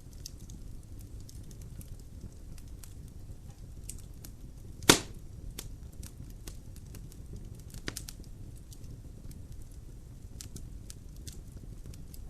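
Logs burning in a fireplace: a low steady rumble of the flames with frequent small crackles, one loud sharp pop about five seconds in and a smaller one near eight seconds.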